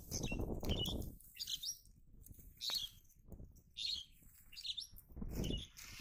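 Small birds chirping in short, high calls every second or so. Rustling from movement over dry grass in the first second and again near the end.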